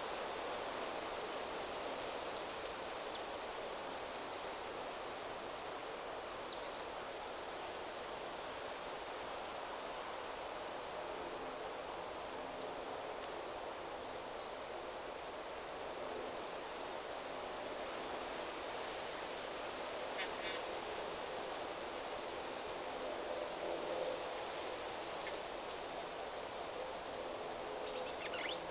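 Wind rustling steadily through forest trees, with thin, very high bird chirps repeating every second or two.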